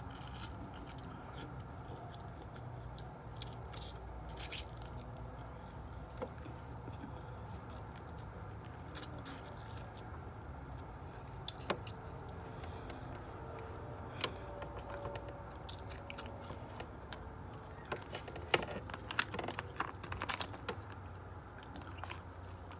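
Close-up chewing and mouth sounds of someone eating with her fingers, with scattered short clicks and taps as the food is handled, more of them near the end, over a steady low hum.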